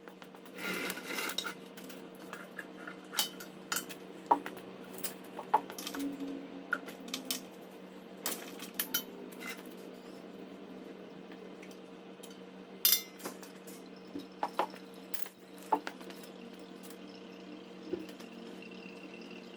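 Metal hand tools and parts clinking and knocking at irregular intervals during work under a car, with a loud double clink about two-thirds of the way through, over a steady low workshop hum.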